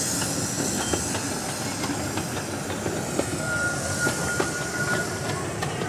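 A 16-inch gauge grand scale steam train's passenger coaches rolling past, the wheels clicking irregularly over the rail joints. A wheel gives a thin squeal for about a second and a half near the middle.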